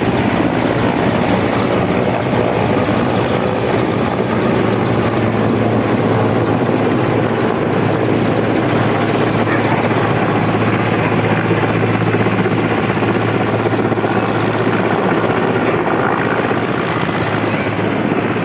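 Helicopter with rotors turning at close range: a loud, steady rotor and turbine noise with a constant low hum and a fast, even beat of the blades.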